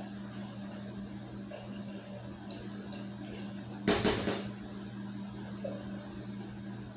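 Kitchen utensil clattering briefly against cookware about four seconds in, over a steady low hum.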